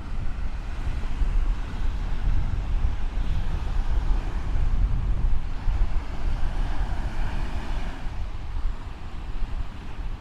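Wind buffeting the microphone in a gusty low rumble, over the steady wash of surf on the shore, which swells about two-thirds of the way through.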